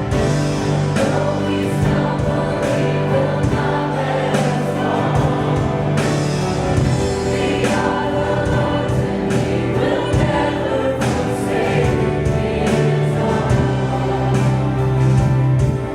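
Music: a choir singing a worship song over sustained instrumental chords, with scattered sharp percussive hits.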